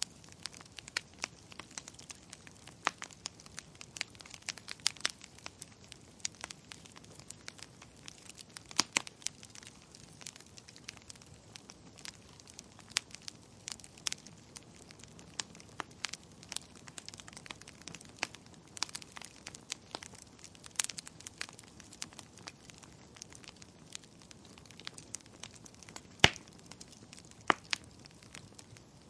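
Wood fire crackling in a fireplace: irregular sharp pops and snaps over a faint, soft hiss, with one loud pop near the end.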